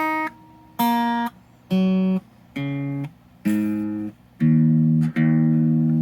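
Electric guitar through a small valve amp, its open strings picked one at a time, stepping down from the high strings to the low, the last two notes ringing longest. It is played in pickup position 2, bridge and middle, with the bridge humbucker split.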